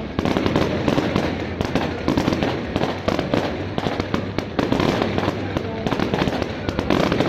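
Fireworks and firecrackers going off in a dense, continuous crackle of rapid pops.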